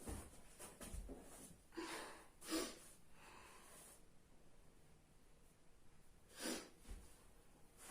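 A person's short breaths or sniffs in a quiet small room: two close together about two seconds in and one more about six and a half seconds in.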